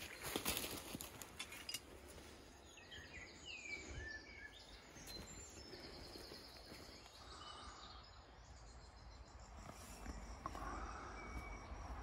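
Quiet woodland ambience with a small songbird chirping and trilling, and a few rustling clicks in the first two seconds.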